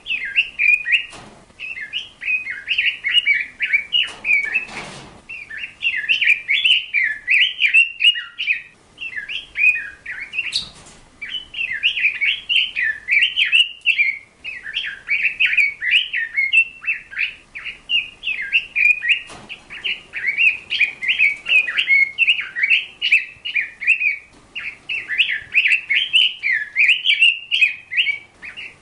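A bird chirping and twittering rapidly and without pause, in quick high notes. There are a couple of brief rustles or knocks, one about four seconds in and one about ten seconds in.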